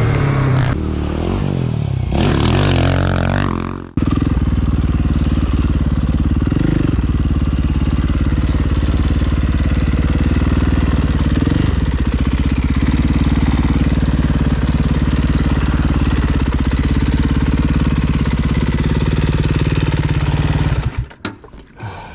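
Background music for the first few seconds, then a dirt bike engine running loud at fairly steady revs with slight rises and falls in pitch, until it drops away shortly before the end.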